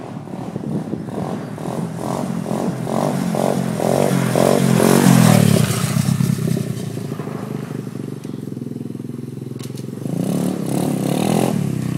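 Small 125cc pit bike engine revving under a rider. It builds to its loudest about five seconds in, runs steadier after that, and picks up again near the end.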